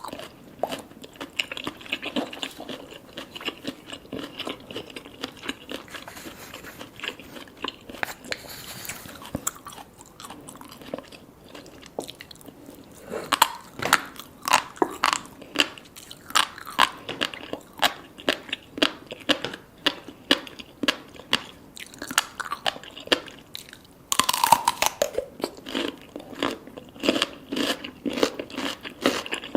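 Close-miked eating sounds: chewing salmon sashimi with red tobiko and sea grapes, wet chewing with many quick crunchy pops. The chewing grows louder about halfway through, with a louder bite near the end.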